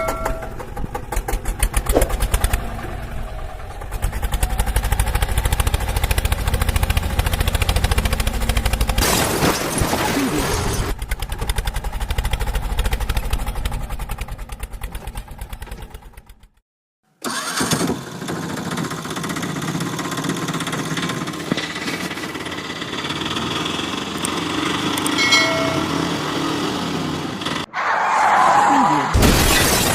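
An engine running with a rapid, even chugging. It cuts out for about a second midway, then runs on.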